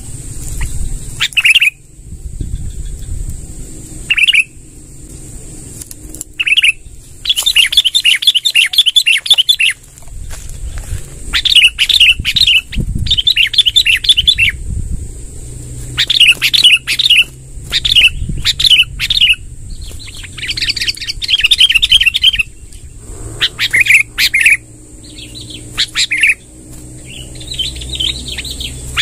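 Sooty-headed bulbul (kutilang) singing: short chattering calls and rapid rolling runs of notes, repeated again and again with brief gaps, over a low rumble.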